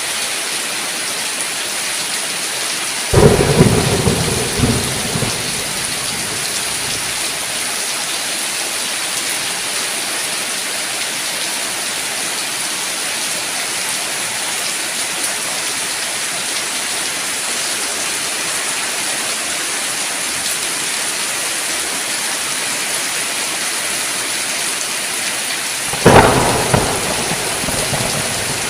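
Steady heavy rain, with two sharp thunderclaps, one about three seconds in and one near the end. Each rumbles away over a couple of seconds.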